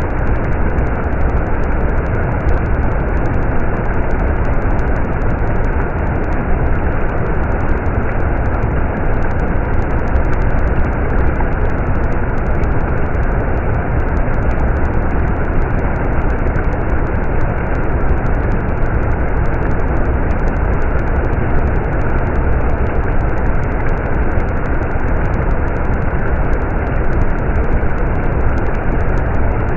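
Stream water rushing steadily, a dense, even noise heaviest in the low range.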